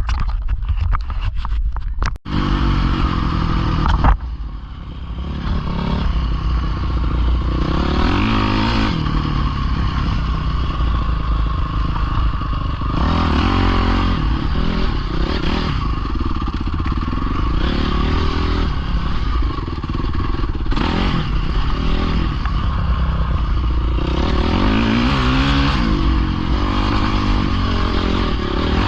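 Pit bike engine running and revving up and down repeatedly, its pitch rising and falling, after a couple of seconds of clatter at the start.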